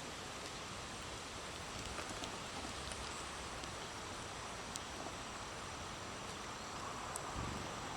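Breezy outdoor ambience: a steady hiss of wind through leaves, with a few faint ticks and a brief low gust of wind on the microphone near the end.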